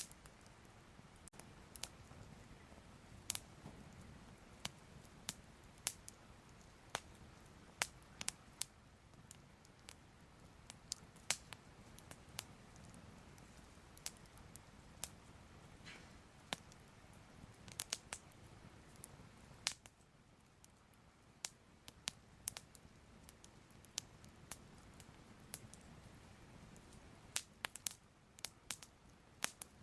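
Fire crackling softly: irregular sharp pops and snaps, about one or two a second, over a faint low rumble.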